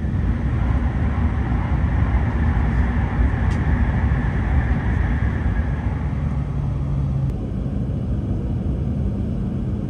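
Cabin noise inside a W7-series shinkansen moving at speed: a steady low rumble with rushing air and track noise, and a brighter hiss that swells for a few seconds in the middle as it runs past a train standing at a station platform.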